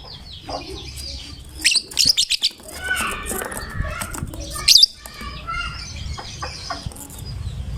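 Lovebird chattering song: rapid, sharp high-pitched chirps and trills, with the loudest bursts about two seconds in and again near five seconds.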